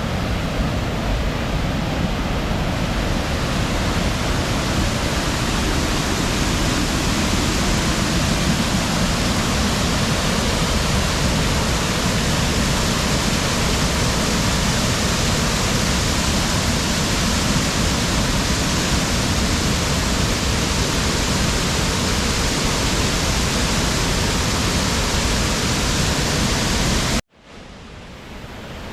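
Waterfall's falling water rushing steadily and loudly. Near the end it cuts out abruptly, then a quieter rush of water fades back up.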